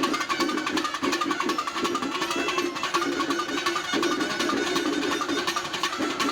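Kerala temple festival percussion ensemble playing a fast, dense, driving rhythm of rapid drum strokes.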